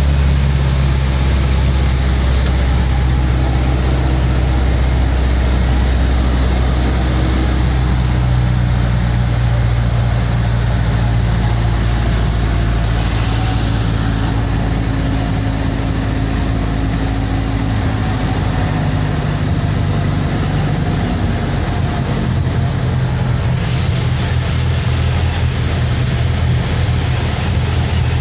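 Light aircraft's piston engine and propeller droning steadily, heard from inside the small cabin, with a loud rushing noise over it; the engine note shifts slightly a couple of times.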